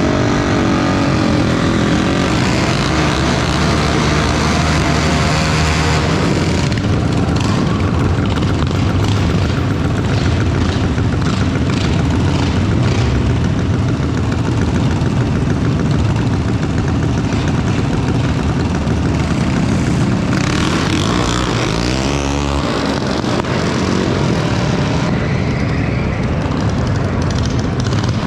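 Minibike engines running hard, loud throughout. The pitch climbs over the first several seconds as one revs up, and swings down and back up again about two-thirds of the way through.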